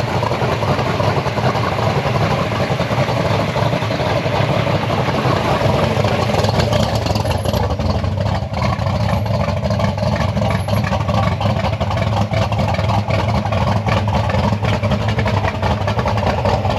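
A car engine running steadily close by, a continuous low rumble.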